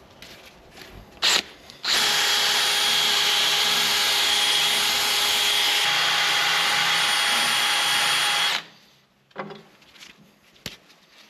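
Drill spinning a wire wheel against a tractor stabilizer arm's ball end, scrubbing off old caked grease. It starts abruptly about two seconds in, runs steadily for about six seconds and cuts off, with a few light handling knocks before and after.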